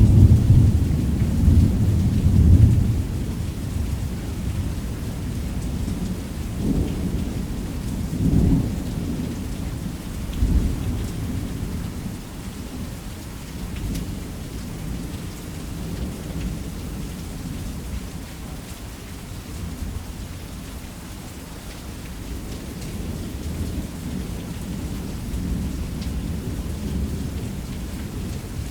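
Thunderstorm: steady heavy rain drumming on a roof under rolling thunder. The thunder is heaviest in the first few seconds, swells briefly a few more times over the next several seconds, and then settles into a softer rumble beneath the rain.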